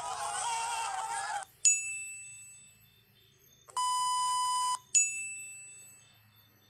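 A group of young people yelling excitedly until about a second and a half in. Then a bright ding that rings and fades, a steady one-second TV colour-bar test-tone beep, and a second ding that fades out.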